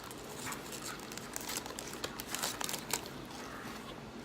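Gold wrapper on an individually wrapped chocolate wafer crinkling and crackling as it is opened, in many small irregular crackles.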